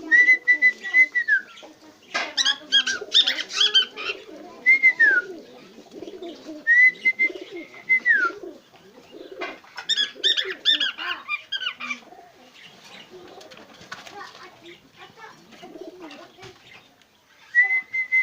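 Cockatiel singing: clear whistles held on one pitch that slide down at the end, three of them plus a fourth starting near the end, alternating with two bursts of rapid chattering warble.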